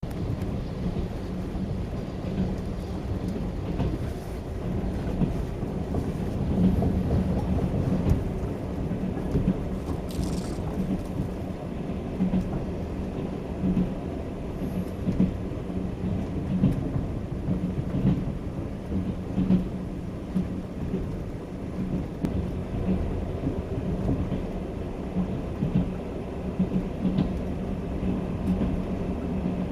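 Passenger train on the Trans-Siberian Railway running, heard from inside the carriage: a steady low rumble with irregular louder knocks.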